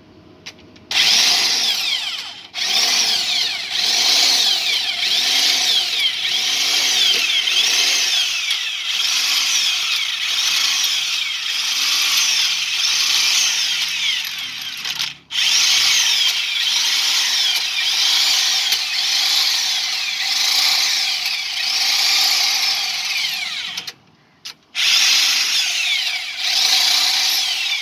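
A handheld power tool runs in long stretches, its pitch rising and falling over and over, about every two-thirds of a second. It stops briefly three times before starting again.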